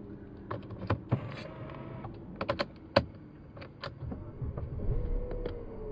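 Mercedes E200 CGI's 1.8-litre turbocharged four-cylinder idling, heard inside the cabin, with a run of sharp clicks and taps over it. Near the end a low rumble builds.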